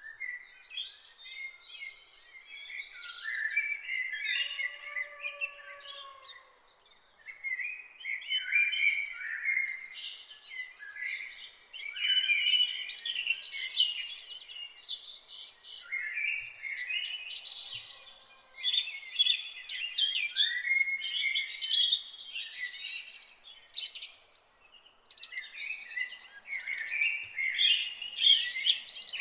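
Morning chorus of several songbirds singing and chirping over one another, busy and continuous, with a faint lower call twice.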